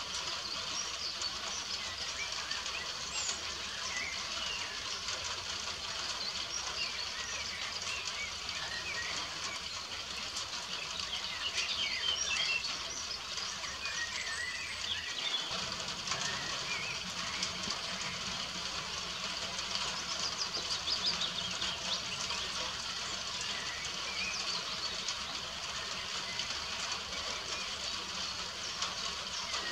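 Steady rain pattering, with birds calling and chirping intermittently through it; the sound drops out briefly about halfway through.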